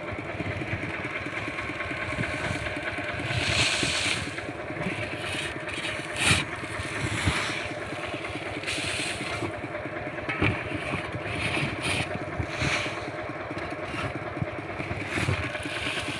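Single-cylinder diesel engine of a Kubota walk-behind tractor running steadily, with a few brief rushing noises over it.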